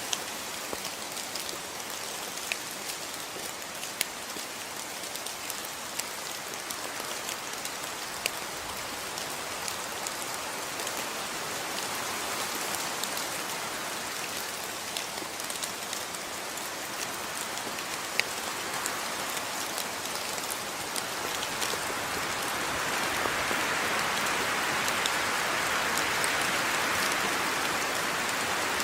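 Steady rain falling, with scattered individual drops ticking sharply on a surface; it grows somewhat heavier over the last few seconds.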